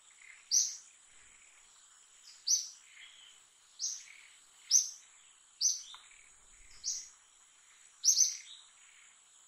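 A bird repeating a short, sharp, falling chirp about seven times, roughly once every second or so, over a steady high-pitched whine.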